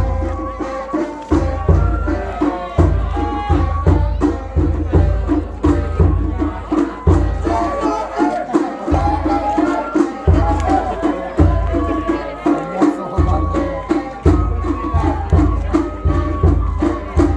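Japanese festival float music (matsuri-bayashi): drums keep a steady, quick beat under a higher melody line.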